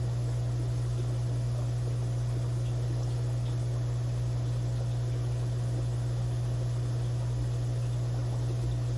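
Steady low electric hum of aquarium equipment running, with fainter higher tones and a light hiss, unchanging throughout.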